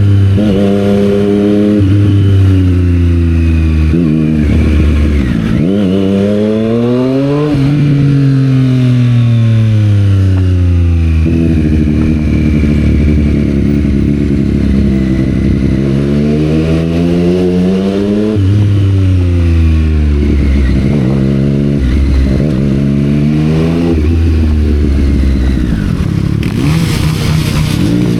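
Triumph Street Triple 765 R inline-triple engine through a Yoshimura exhaust while riding. The revs climb and drop several times as the bike speeds up and slows, with longer steady stretches in between. A burst of rushing noise comes in near the end.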